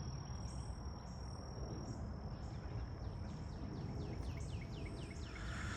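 Outdoor insect chorus, crickets giving a steady high drone, with a bird calling a quick run of short falling chirps, about three a second, from about two seconds in. A low rumble of wind or handling noise sits underneath, and a short harsher sound comes near the end.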